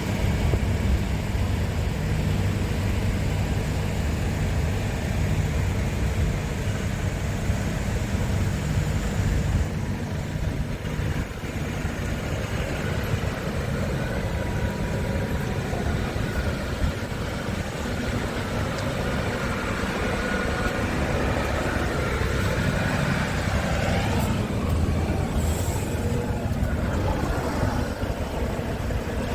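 Scania R410 tractor unit's 13-litre inline-six diesel engine idling steadily, with a short hiss near the end.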